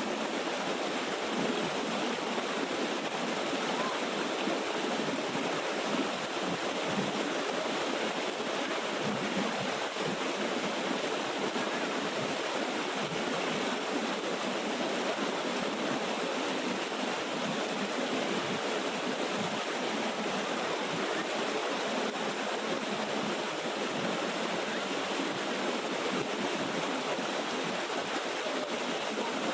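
Small waterfall rushing and splashing steadily.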